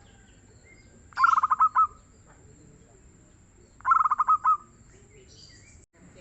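Zebra dove (perkutut) cooing: two short phrases of quick, rippling notes, one about a second in and one near the middle, each a run of about seven notes.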